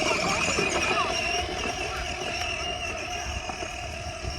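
Kids' ride-on tractor running as it drives, a steady motor hum that fades slightly.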